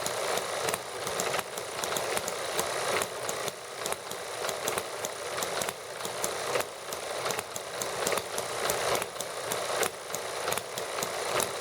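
Small model hit-and-miss engines running together, a dense, irregular patter of sharp firing clicks and pops whose loudness surges and dips every second or so.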